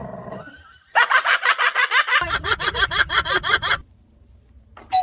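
A rapid cackle of short, clucking pulses, about seven a second, starting about a second in and breaking off sharply after nearly three seconds.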